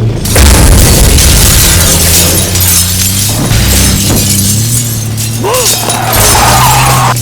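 Action-film soundtrack: dense, loud crash and impact effects, with a music score holding low notes underneath.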